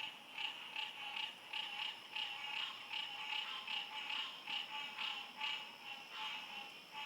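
Night chorus of tropical frogs and insects: short calls repeating two or three times a second over a steady, high insect whine.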